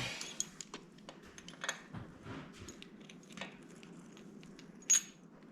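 Light handling noise of tools and parts: scattered small clicks and taps, with one sharper click about five seconds in.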